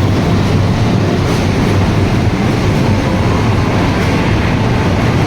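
Train in motion: a loud, steady rumble of the running locomotive and wagons.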